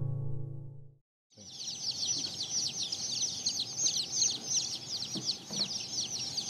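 The tail of a guitar chord dies away in the first second; after a short gap, a dense chorus of Mottled Houdan chicks peeping begins, many short, high cheeps overlapping without a break.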